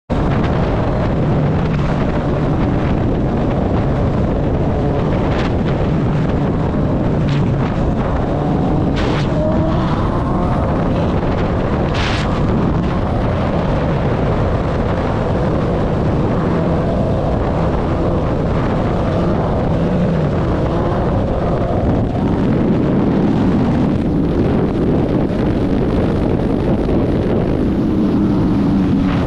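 Suzuki Hayabusa motorcycle riding along, its inline-four engine running steadily under heavy wind noise on the microphone.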